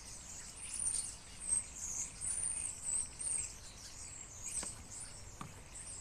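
A large flock of small birds chirping together, many short high calls overlapping into a continuous twitter that is busiest in the first few seconds: a flock gathering before migration.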